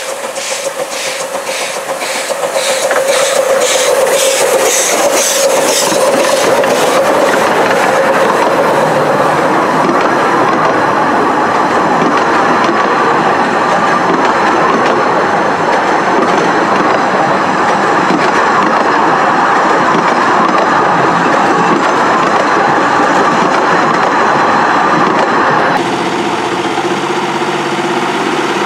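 Narrow-gauge train heard from inside a carriage: the loud steady rumble and clatter of the carriage wheels on the rails, with a regular beat of about two a second for the first few seconds. Near the end it changes abruptly to a diesel locomotive's engine idling.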